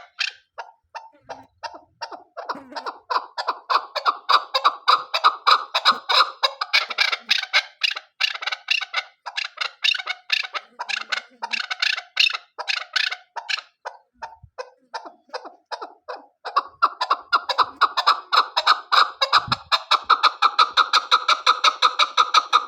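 Female chukar partridge calling: a rapid, rhythmic series of short clucking "chuck" notes, several a second, thinning briefly about two-thirds of the way through and then building again.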